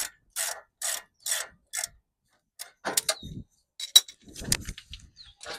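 Hand ratchet wrench worked in quick even strokes, about two a second, turning a bolt; the ratcheting stops about two seconds in. Then scattered metal clinks and knocks, with a sharp click about three and four seconds in.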